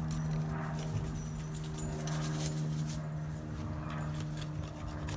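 A steady low mechanical hum, with faint scattered clicks and light jingling over it.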